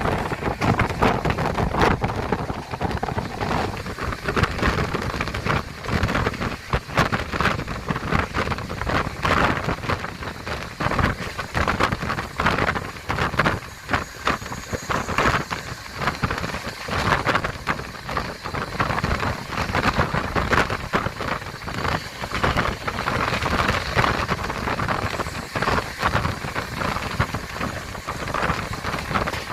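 Steady rushing noise with constant rattling and clatter from a moving Indian Railways train, with wind buffeting the microphone, heard from on board.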